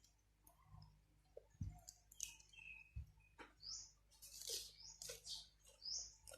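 Faint high-pitched chirps from a small animal, each sweeping upward, repeated a few times, with scattered soft clicks and a brief noisy rustle partway through.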